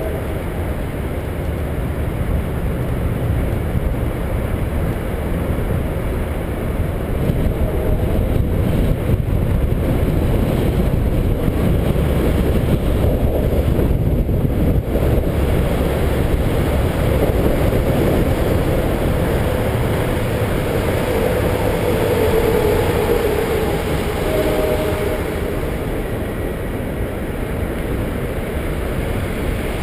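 Steady wind rumble on the camera's microphone and tyre noise from a bicycle riding along a paved trail, with a faint pitched sound coming and going in the second half.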